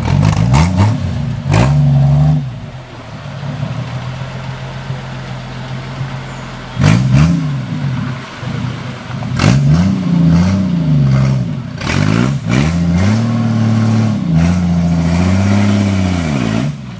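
Off-road vehicle's engine revving in repeated bursts, pitch climbing and falling again several times as it works through an obstacle, with sharp knocks and clatter along the way. Quieter, steadier running for a few seconds after the first burst.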